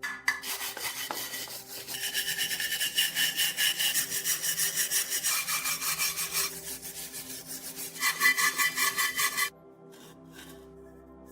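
Quick back-and-forth scraping strokes of hand abrasive work on metal, about four or five a second, changing pitch twice as the stroke shifts and stopping suddenly about nine and a half seconds in. Soft background music runs underneath.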